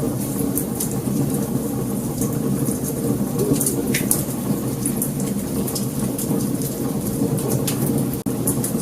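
Wood fire burning with a steady low rumble and frequent sharp crackles and pops. The sound drops out for an instant near the end.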